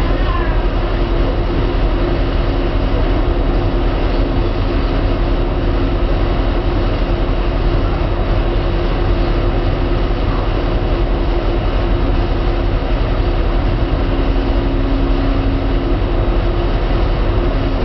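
Steady hum and rumble of a regional train's onboard equipment while the train stands at a station platform, with two steady tones running through it.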